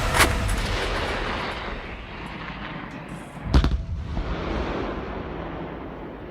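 Artillery guns firing: two sharp reports about three and a half seconds apart, the second the louder, each followed by a long rolling rumble that fades away.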